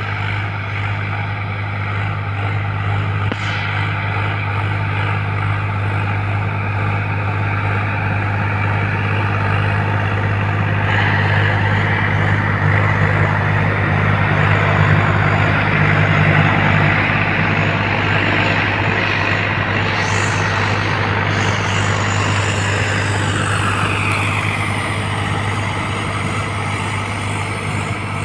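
Swaraj 744 XT tractor's diesel engine running steadily under load while driving a rotavator. It grows louder through the middle, and a higher whine drops in pitch near the end.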